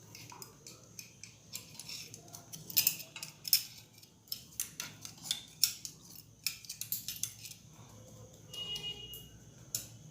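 Metal tools clicking and scraping against the electric geyser's metal fittings: an irregular run of sharp clicks and scrapes, loudest about three seconds in.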